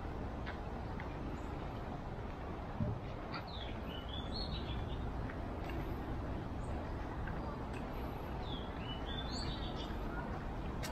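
A songbird singing two short warbling phrases, the second about five seconds after the first, over a steady low outdoor background hum. A soft thump comes just before the first phrase.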